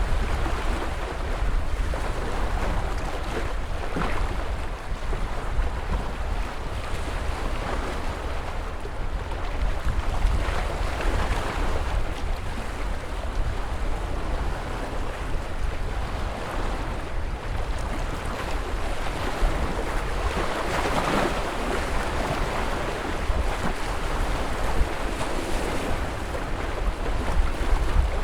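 Ocean waves breaking and washing in steadily, swelling louder a few times, with a low wind rumble on the microphone underneath.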